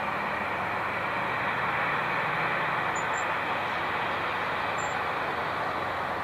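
Jet airliner engines running, a steady loud noise that swells slightly about two seconds in.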